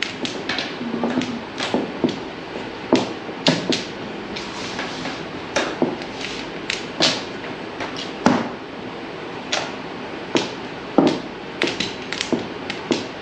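Mahjong tiles clacking on a table: irregular sharp clicks and knocks as tiles are drawn and discarded during play.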